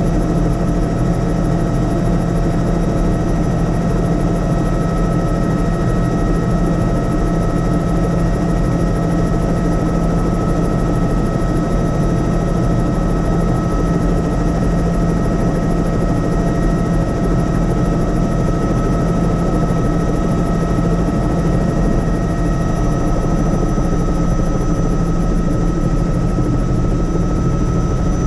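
Helicopter in flight: a steady, loud drone of rotor beat and turbine whine, with several constant high whining tones over a low rapid pulsing, unchanging throughout.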